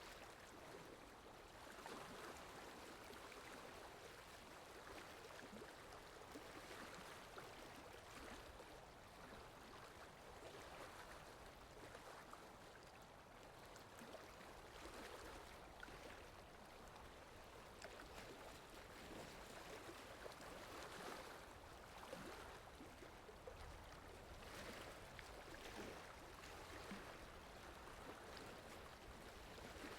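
Faint, steady rain falling in a forest: an even wash of water noise.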